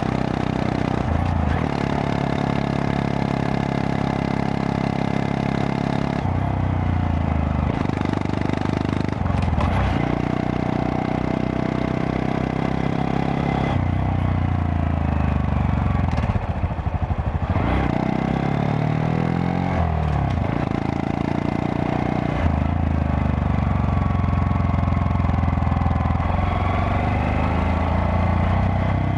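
Honda Monkey 125's single-cylinder four-stroke engine running on the move, its note falling and rising several times with throttle and gear changes, over steady wind and road noise.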